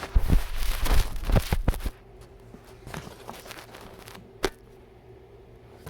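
Hands handling parts during a PC build: about two seconds of rustling and clattering with many sharp clicks, then quieter, with a single sharp click later on.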